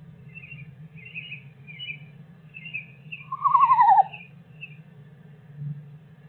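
A whinny: one loud, quavering call about three and a half seconds in, falling in pitch over less than a second, among soft repeated chirps.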